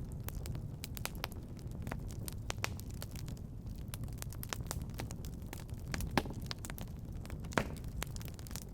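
Wood fire burning in a fireplace, crackling: a steady low rumble of flame under frequent sharp pops, with two louder snaps in the second half.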